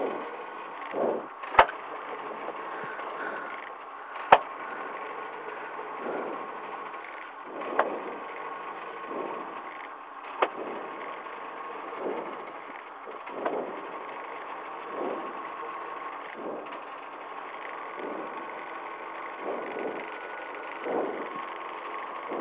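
Toyota 4A-GE four-cylinder engine of a KP62 Starlet rally car idling while stopped, with a soft surge about every one and a half seconds. Two sharp knocks come in the first few seconds, with the car's bonnet being raised.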